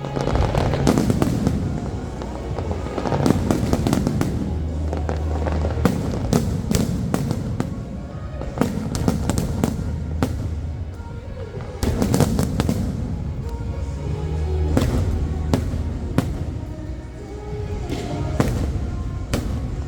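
Aerial fireworks bursting in a rapid, irregular series of sharp bangs, with show music playing underneath.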